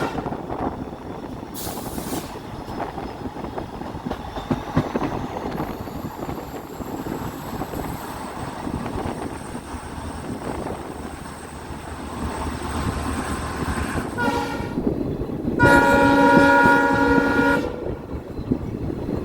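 Diesel-hauled passenger train running along the track with steady rail and wheel rumble, then the WDP4B locomotive's horn sounds near the end: a short toot followed by a louder blast of about two seconds.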